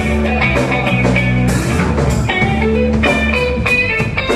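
Live rock band playing an instrumental passage: electric guitar over bass and a drum kit, with a steady beat.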